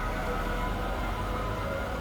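Heavy truck engine running with a steady low rumble, with several sustained whining tones over it.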